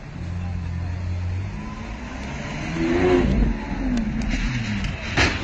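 Sports car engine revving hard as the car accelerates and slides sideways through a turn. The pitch climbs to a loud peak about three seconds in and then falls. A single sharp knock comes near the end.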